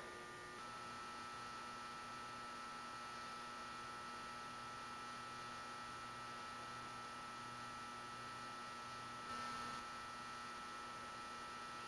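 Steady low electrical hum with faint constant tones: quiet room tone, with one brief soft rustle about nine seconds in.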